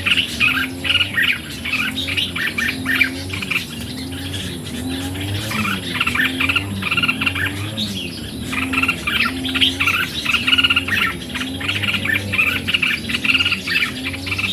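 Red-whiskered bulbuls singing and chattering in dense runs of short notes, a recording meant as a lure to excite bulbuls. The song thins briefly about four seconds in, over a low wavering tone.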